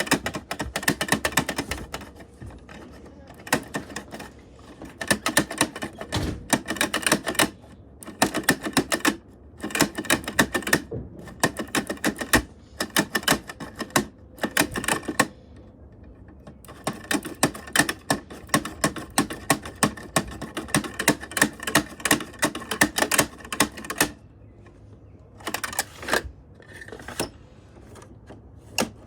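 Rapid mechanical clicking in bursts of one to two seconds with short pauses between them, a fast rattling tick like a typewriter or a ratcheting plastic mechanism.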